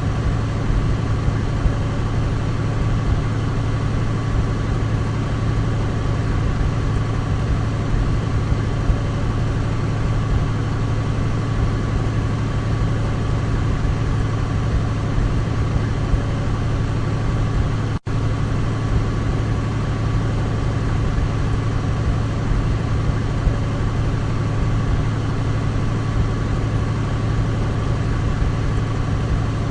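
Douglas DC-3's radial piston engines droning steadily at a constant pitch, a deep hum with a steady higher tone above it. A split-second gap cuts the sound about eighteen seconds in.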